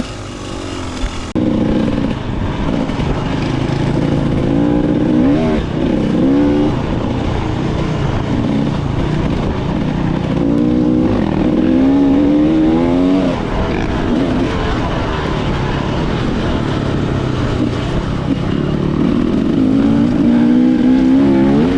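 Dirt bike's two-stroke engine revving, with the pitch climbing in repeated throttle bursts over a steady running drone.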